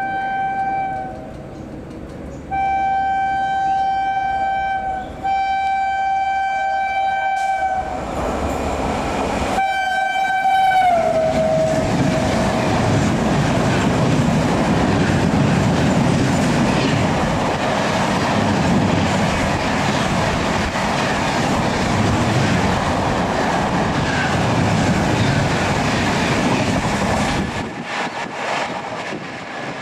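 WAP-7 electric locomotive sounding its horn in four long blasts as it comes through at speed; the last blast drops in pitch as the locomotive passes. The express's coaches then rush past with a steady rumble and clickety-clack of wheels over the rail joints.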